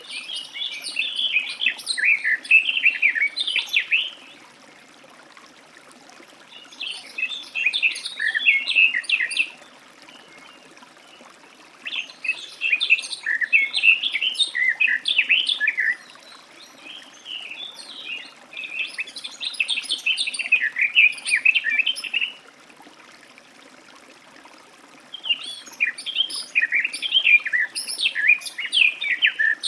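Garden warbler singing: five long, rapid warbling phrases of about three to four seconds each, a few seconds apart.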